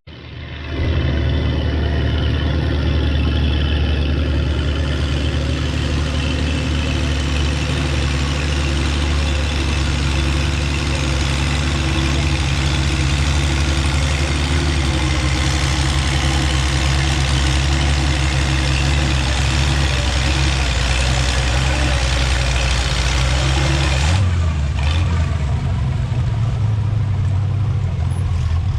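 Antique pulling tractor's engine running hard and steady at full throttle while pulling the sled. About 24 seconds in the engine sound drops off sharply to a lighter, lower running.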